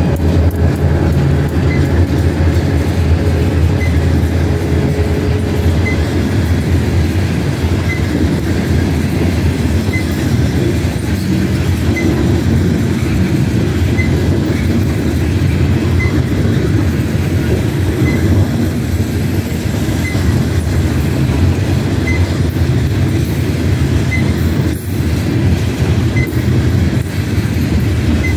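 Freight train passing close by: RJ Corman diesel locomotives' engines droning for the first couple of seconds, then a long string of steel coal hopper cars rolling past with a steady rumble of wheels on rail.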